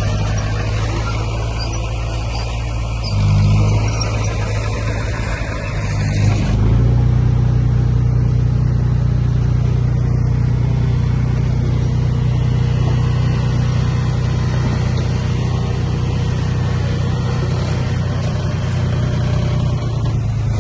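Heavy diesel earthmoving engine running steadily, rising briefly about three seconds in, then settling into a louder, heavier pull from about six and a half seconds on.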